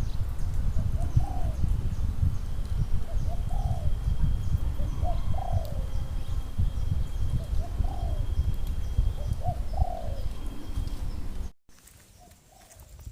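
A dove cooing outdoors, about five short phrases of arched notes spaced roughly two seconds apart, over a steady low rumble. The sound cuts off abruptly about a second and a half before the end.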